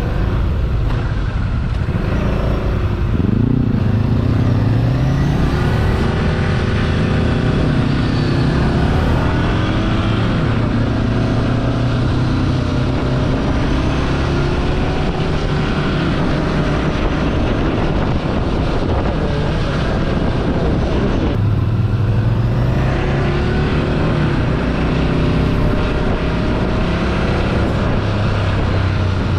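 Ducati Scrambler Sixty2's 399 cc air-cooled L-twin running under way, its pitch rising as it accelerates a few seconds in, then holding steady. About two-thirds through, the pitch drops at a shift and climbs again.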